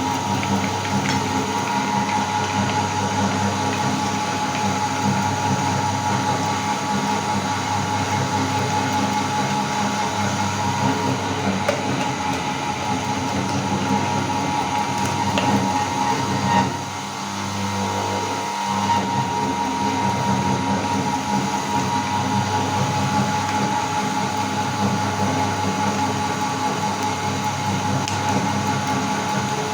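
Electric meat grinder running steadily with a continuous motor hum, dipping briefly and then recovering about two-thirds of the way through.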